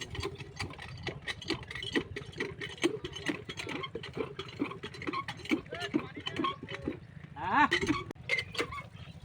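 Several people talking over a low steady rumble, with one voice rising loudly near the end.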